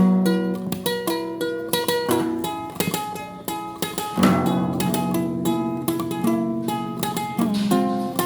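Solo guitar music: a continuous run of plucked notes, a melody over held bass notes.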